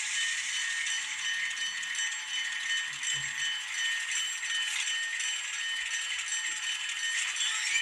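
Onboard sound from an ESU LokSound decoder in an N scale Atlas Alco FA-1 diesel model, played through the tiny built-in speaker: a steady, thin, high-pitched running sound with no bass.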